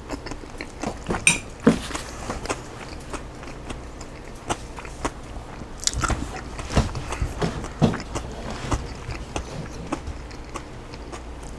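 Close-miked chewing and biting of a crunchy chicken salad with raw cabbage, jalapeños and green onions: irregular wet crunches and mouth clicks.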